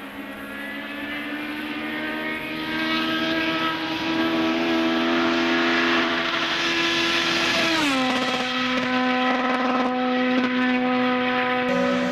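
Racing car engine held at high, steady revs, its pitch creeping up, then dropping quickly about eight seconds in and holding steady at the lower pitch.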